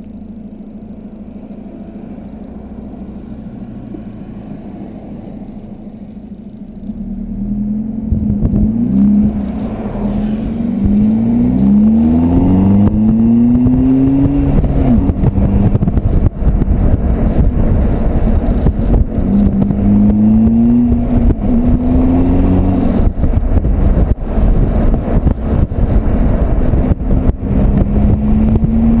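Volkswagen Golf TDI's 2.0-litre four-cylinder turbodiesel through a 3-inch straight exhaust with a high-flow cat, running steadily and then accelerating hard: a run of rising revs with drops between them as it shifts up through the gears, a second pull later on, then steady running with wind buffeting.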